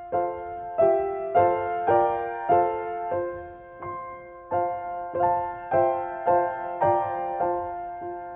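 Background music: a soft piano playing a steady run of chords, struck about twice a second.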